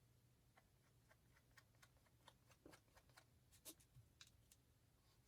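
Near silence: faint, scattered small ticks and taps of craft work at a desk, over a low steady hum.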